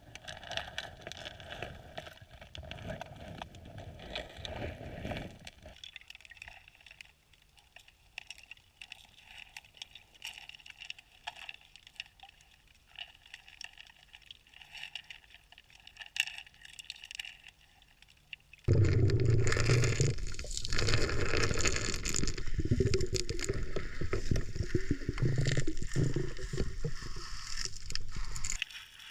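Underwater sound heard through a camera's waterproof housing: faint ticks and water noise at first. About two-thirds of the way in there is a sudden loud stretch of scraping and churning water, lasting about ten seconds.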